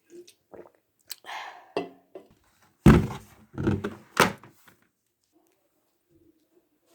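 A string of household knocks and thuds, as of things being handled and set down, with a heavy thunk about three seconds in and another a second later.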